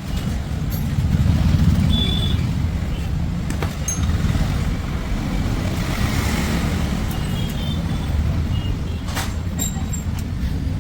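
Steady low rumble of motor vehicles, with a few sharp clicks.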